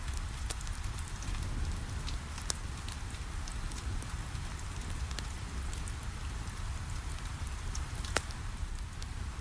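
Steady rain on a window mixed with a crackling wood fire: a continuous rain hiss over a low rumble, with scattered sharp crackles and one louder pop about eight seconds in.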